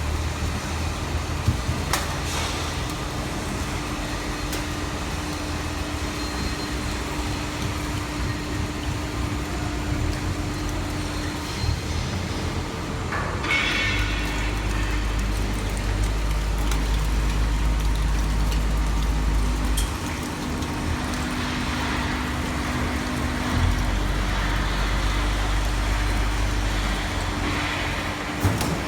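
Hydraulic metal baler running: a steady hum from its motor and hydraulic pump, with a heavier low drone that comes in twice, for about six seconds from the middle and again for a few seconds near the end. There is a short metallic clatter about halfway through.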